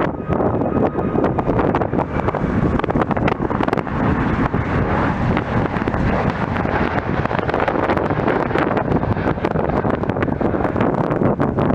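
Jet airliner engine noise, rising to a broad swell in the middle and easing off again, under heavy wind buffeting on the microphone.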